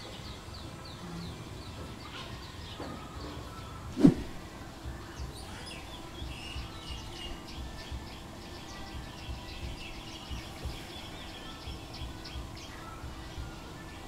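Bulbuls and other small birds chirping, many short calls overlapping. A single loud thump about four seconds in, after which a faint steady hum runs on.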